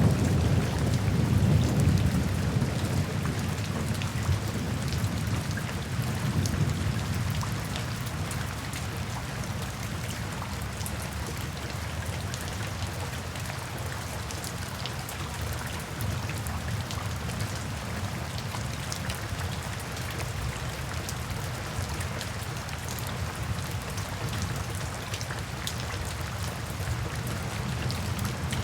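Steady rain falling in a forest, a dense hiss with fine pattering drops. A low rumble of thunder at the start fades away over the first few seconds.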